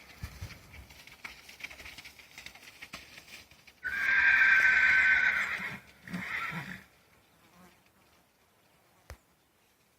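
A horse whinnying: one long, loud call about four seconds in, then a shorter call right after.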